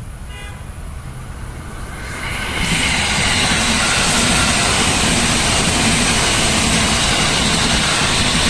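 JR 205 series electric commuter train passing close by, its wheels running on the rails. A low rumble swells sharply about two and a half seconds in and stays loud and steady as the cars go past.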